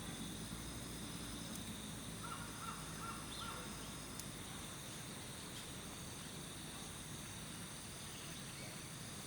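Outdoor ambience: a steady, high-pitched insect chorus, with a bird calling three short times about two to three seconds in.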